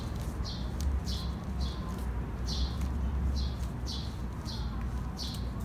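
A bird chirping over and over: short, falling high chirps, one every half second to a second, over a steady low hum.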